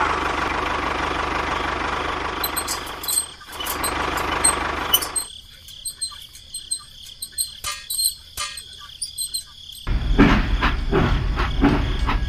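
A model tractor's small motor runs steadily for about three seconds, then stops. Scattered faint clicks follow. About ten seconds in, a toy train's motor and wheels start to rumble and click along plastic track.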